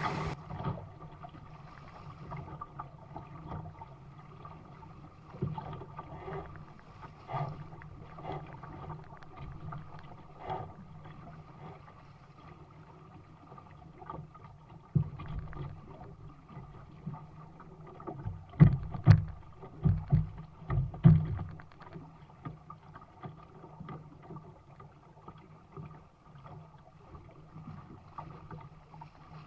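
Water splashing and slapping against the hull of a small sailing dinghy under way, with irregular knocks from the boat. A run of louder thumps comes about two-thirds of the way through.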